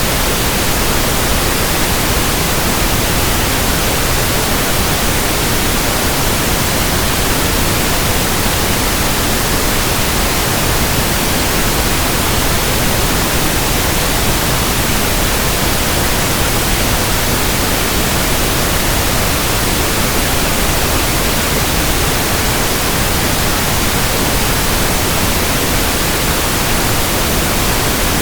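Steady pink noise: an even, unchanging hiss spread across all pitches, with no tones or breaks.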